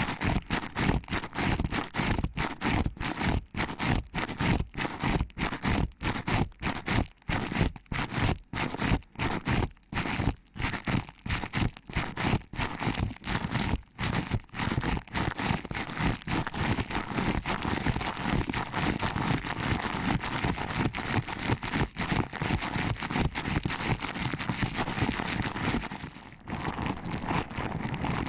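ASMR ear massage: fingers pinching and rubbing the ears of a microphone, a fast run of scratchy rubbing strokes. The strokes come with short gaps at first, then run together into continuous rubbing from about halfway, with a brief lull near the end.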